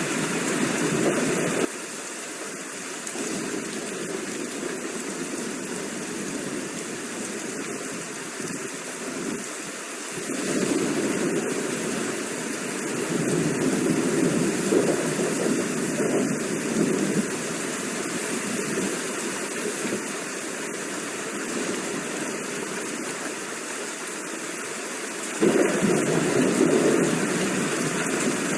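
Steady rain, an even rushing hiss with no thunder. It drops abruptly in level about two seconds in and jumps back up abruptly near the end, like cuts between rain recordings.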